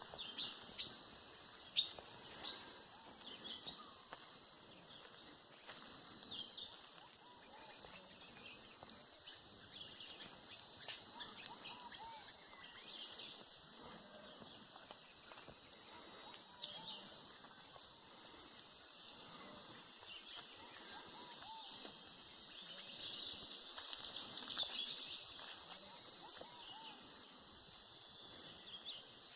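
Steady, high-pitched insect trill pulsing evenly, with scattered bird calls and chirps over it. A few sharp ticks sound near the start, and a brief, louder flurry of high chirps comes about three-quarters of the way through.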